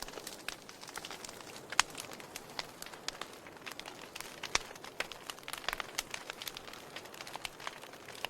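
Wood fire crackling: a steady stream of small snaps and pops from the burning logs, with a louder pop about two seconds in and another just past the middle.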